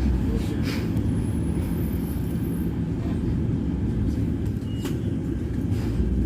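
Scania Citywide natural-gas city bus on the move: a steady low engine and road rumble, with a couple of faint clicks or rattles.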